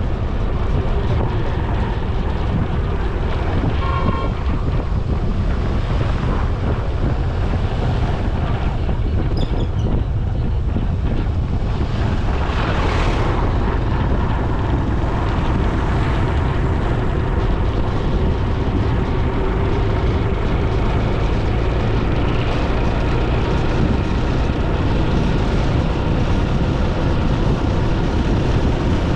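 Wind buffeting the microphone over steady road noise during a ride, with a short horn beep about four seconds in and another vehicle swishing past around thirteen seconds.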